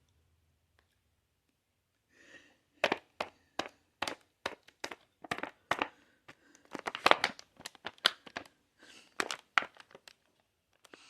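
Close-miked crinkling and crackling of a cookie package being handled and opened: a quick, irregular run of sharp crackles and clicks that begins about two seconds in.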